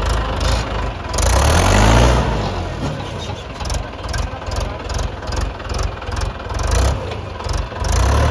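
Tractor's diesel engine running, revving up about a second in and then carrying on with an even pulsing beat, rising again near the end.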